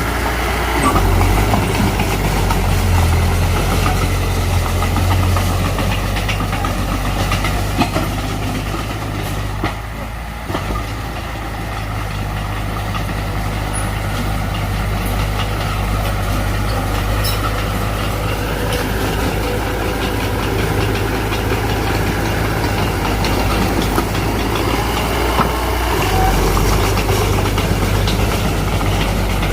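Heavy diesel earthmoving machinery running steadily with a deep, continuous engine hum, dipping briefly in level about ten seconds in.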